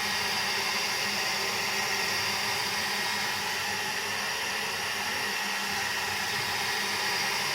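Hair dryer running steadily with an even hiss of blowing air, keeping a ball floating in its airstream.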